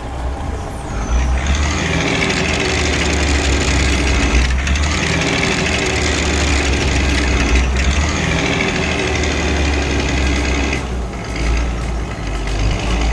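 Heavy construction vehicle's diesel engine running with a deep, steady rumble, used as a cartoon sound effect. The rougher upper layer of the sound briefly drops out about three times.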